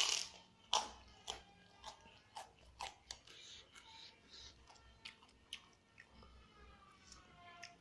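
A person chewing and biting crunchy food close to the microphone, a string of sharp crunches that is loudest in the first second and grows softer and more spaced afterwards.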